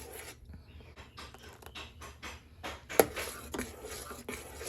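Cooking sounds from a pot of crab and corn soup with egg: light, irregular ticks and scrapes, with one sharp clink about three seconds in.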